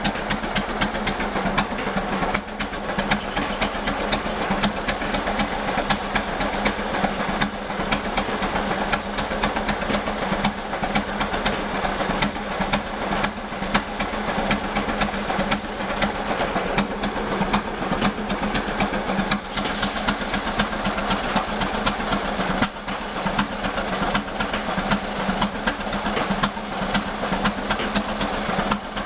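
J.I. Case 20-40 gas tractor's opposed two-cylinder engine running steadily, with a rapid, even train of firing pulses and a steady low hum.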